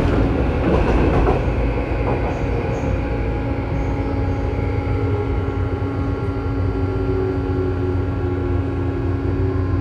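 Tobu 9000 series train heard from car MoHa 9204, right above its armature-chopper control: a low running rumble with several steady whining tones from the chopper and traction motors. This car's chopper is known for an abnormal noise. A few wheel knocks over rail joints come in the first second or so.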